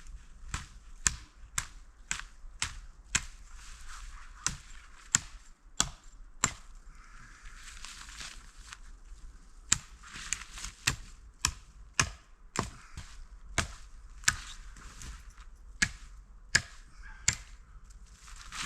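Repeated sharp chopping strokes, such as wood being chopped or split, at about one to two a second with a couple of short pauses.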